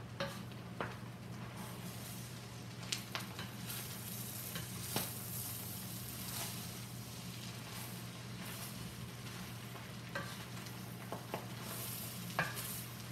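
Fried rice sizzling in oil in a hot pan on high heat while a spatula stirs and tosses it. Sharp clacks and scrapes of the spatula against the pan come every second or two over the steady sizzle.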